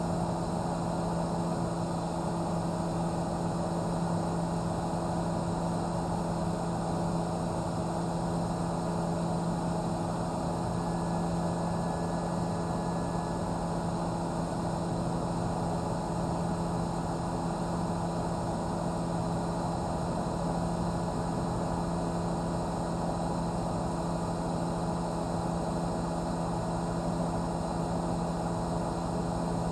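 News helicopter's engine and rotor drone, heard from on board: a steady hum of several fixed tones over a rushing noise, unchanging throughout.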